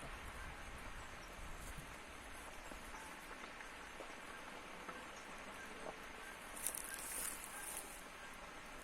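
Faint outdoor ambience with insects chirping in short, very high-pitched bursts, the clearest one about seven seconds in.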